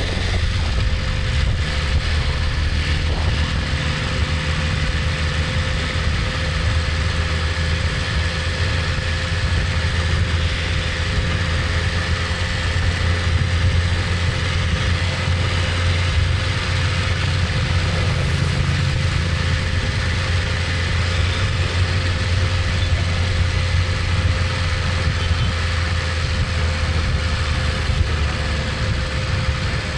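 BMW S1000RR's inline-four engine idling steadily, with a low, even hum that does not rise or fall.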